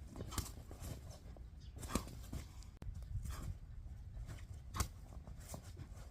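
Low wind rumble on the microphone with five or six short, sharp crackles spaced a second or more apart, the loudest about two seconds and about five seconds in.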